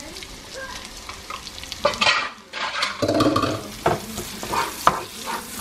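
Sliced bell peppers sizzling in melted butter in a frying pan, stirred with a wooden spoon that scrapes and knocks against the pan several times.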